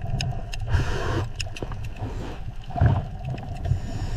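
Low, steady underwater rumble, with scattered clicks and a short hiss about a second in.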